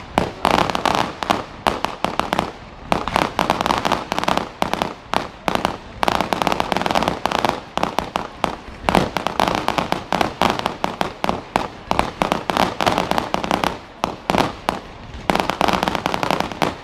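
Fireworks going off in a dense, rapid crackle of sharp pops, many per second without let-up, easing briefly a couple of times.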